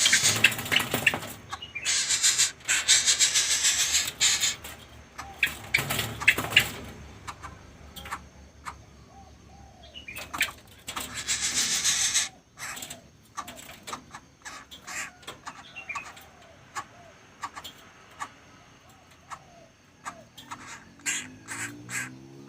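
Young coucal chick (burung but-but) making harsh hissing bursts, four of them in the first half, each lasting one to two seconds. Quieter clicks and soft short calls follow.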